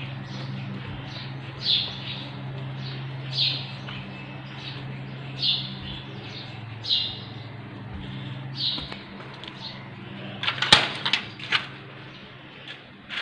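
Bird chirps, short falling calls repeated about every one and a half to two seconds, over a steady low hum. A little over ten seconds in comes a quick cluster of sharp metallic clicks and knocks, the loudest sound here, as a metal mesh gate is handled.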